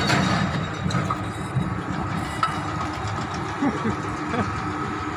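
Hyundai excavator's diesel engine idling steadily, a low even hum with no revving.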